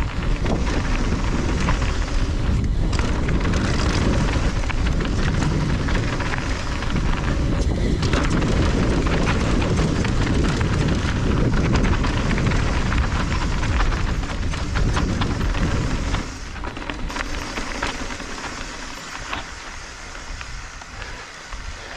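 Mountain bike riding fast over a dirt trail: wind rumbling on the action-camera microphone and tyres rolling over dirt and stones, with scattered clatter from the bike. The noise eases about 16 seconds in as the bike slows.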